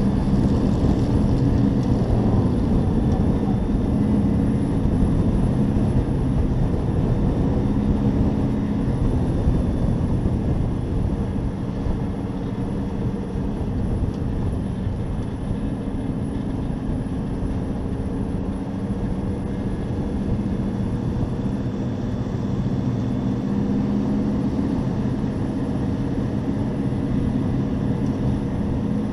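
Race truck engine heard from an onboard camera at racing speed, its note swelling and easing off several times as it goes through the corners, over a steady bed of wind and road noise.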